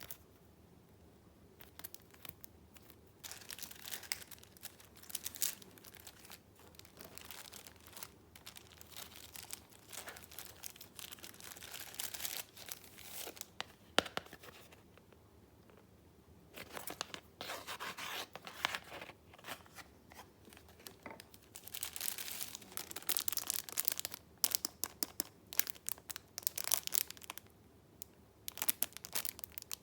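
Sheets of paper in a paper share book being handled and leafed through, rustling and crinkling in irregular bursts with short pauses between them. There is one sharp click about halfway through.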